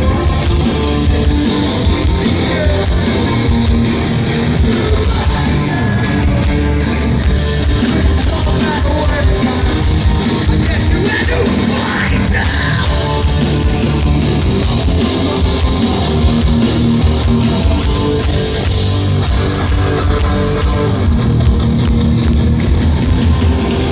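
Live heavy rock band playing loudly: electric guitars and pounding drums, with singing over them.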